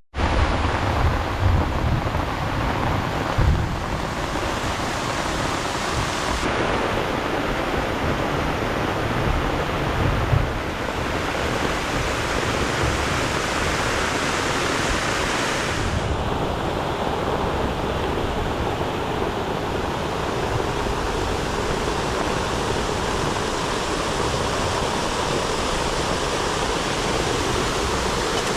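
Steady rushing of a waterfall, with low wind buffeting on the microphone in the first ten seconds or so. The tone of the rush changes abruptly twice.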